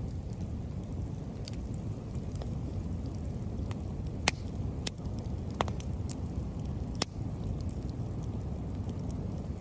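Scrap-wood bonfire burning, with a few sharp pops and crackles, the loudest about four to five seconds in, over a steady low rumble.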